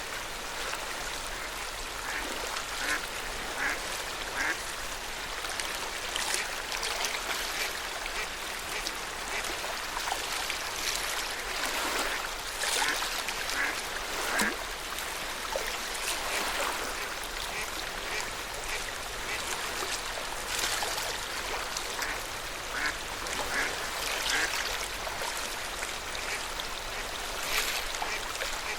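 Lake water lapping and splashing at the shore of Lake Yamanaka: a steady wash with many small, irregular splashes.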